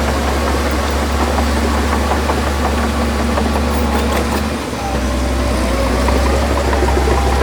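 Diesel engine of heavy earthmoving machinery running steadily, with a light clatter over it. The engine note dips briefly about four and a half seconds in.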